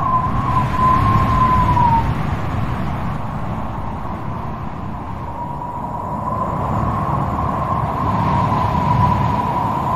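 Strong wind blowing, a low rushing rumble with a whistling tone that wavers around one pitch; the whistle dies away about two seconds in and swells back through the second half.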